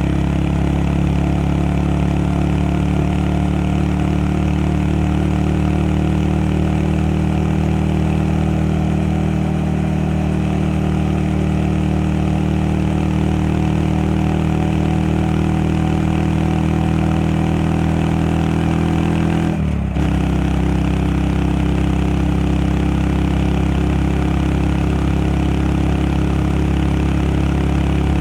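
Honda Monkey 125's single-cylinder four-stroke engine running steadily while under way, with one very short break in its sound about two-thirds of the way through.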